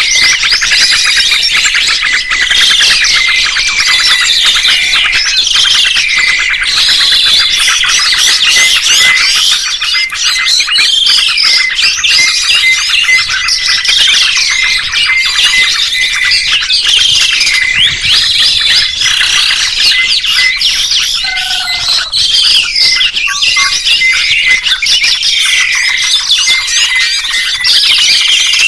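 Songbirds singing densely, several voices overlapping in a rapid high twittering. A swooping whistled phrase repeats about every two seconds.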